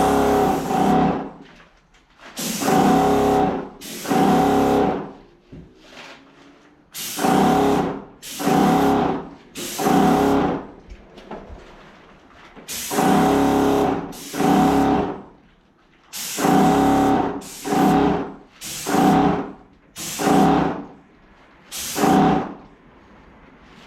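Wagner electric paint sprayer spraying primer in repeated short trigger pulls of about a second each, about fourteen of them: a hiss of paint spray over a steady motor-pump buzz that starts and stops with each pull.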